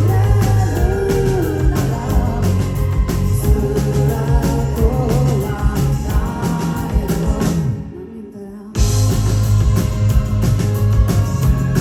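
Rock band playing live at full volume. About eight seconds in, the band stops abruptly for about a second, then comes back in together.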